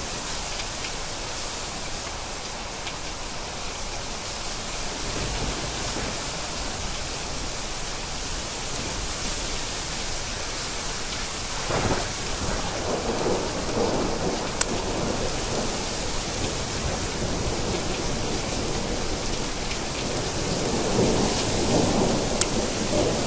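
Steady rain with rolling thunder: the rain hisses throughout, and a thunder rumble builds about halfway through and again near the end. A few sharp ticks stand out over the rain.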